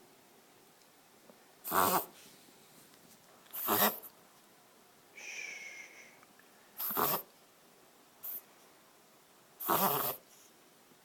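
Yorkshire terrier reverse sneezing: four sharp, noisy snorting breaths, each under half a second, two to three seconds apart. A short high whine falls slightly between the second and third, and a small extra snort comes before the last.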